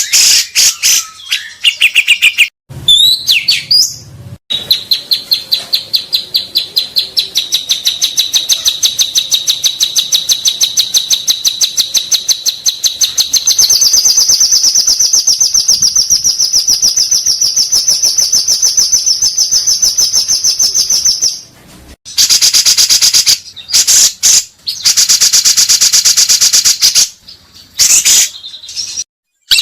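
Songbird singing in fast rapid-fire runs of repeated high notes. One long run lasts about sixteen seconds and steps up in pitch about halfway through. Several shorter runs follow near the end.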